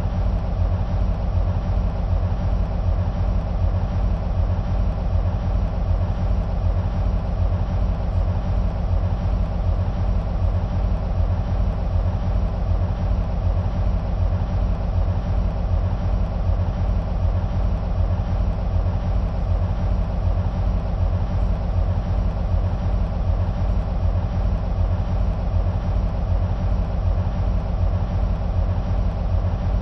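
EMD SW1500 switcher locomotives' diesel engines idling, a steady low rumble with a fast, even pulse. Each is powered by a 12-cylinder two-stroke EMD 645 engine.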